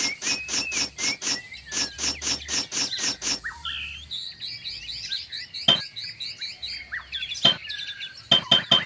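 Birds chirping: a fast run of repeated high notes for about three seconds, then a string of short rising whistles.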